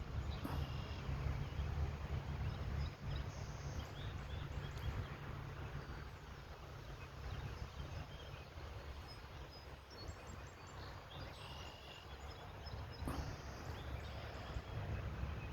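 Gusty wind buffeting the microphone as a storm comes in, giving a steady, uneven low rumble, with faint short bird chirps scattered over it.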